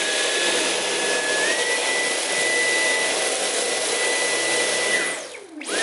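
Dyson V11 Animal cordless stick vacuum running with its Torque Drive floor head on bare floor: a steady rushing motor whine that steps up in pitch about a second and a half in. It spins down about five seconds in, then briefly runs up again and winds down once more near the end.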